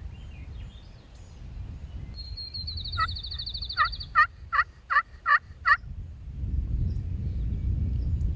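Wild turkey calling: a quick high rattling note, then a run of six sharp, loud yelps about a third of a second apart. Wind rumbles on the microphone before the calls and again after them.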